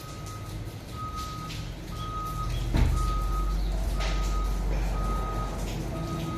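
A reversing vehicle's backup alarm beeping steadily, about one beep a second, over the low running of a heavy engine that grows louder about two seconds in, with a single knock near the middle.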